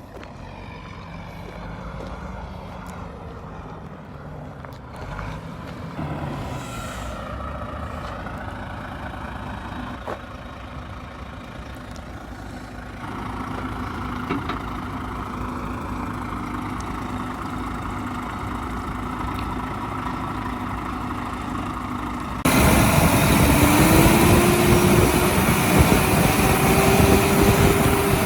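Astra HD9 truck tractor's diesel engine running, its tone shifting now and then. About 22 seconds in it gets suddenly much louder, with an engine note that rises, holds and then falls.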